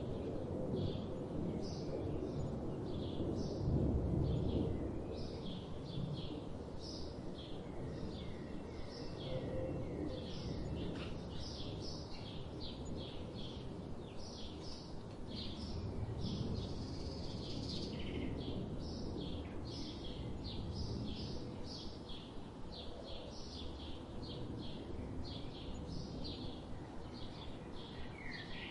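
Small birds chirping in quick, short notes, several a second without pause, over a steady low rumble of background noise that swells briefly about four seconds in.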